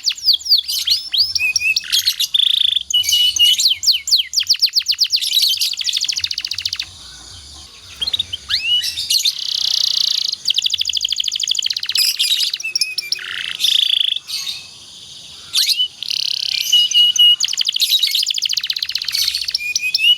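Domestic canary singing a long, loud song of fast trills and rolls mixed with sweeping whistled notes, broken by two short pauses.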